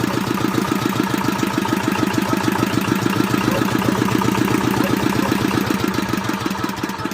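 Freshly rebuilt R180 single-cylinder diesel engine on a walk-behind tractor, idling steadily with an even, rapid beat of firing strokes. It runs softly and evenly, the sign of a good rebuild: new piston group and crankshaft, with the valve clearances set.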